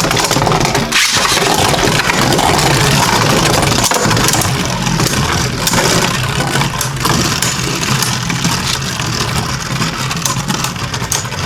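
Two Beyblade Burst spinning tops whirring and grinding as they spin in a plastic SlingShock rail stadium, with a rapid series of sharp clattering hits as they collide with each other and the stadium walls.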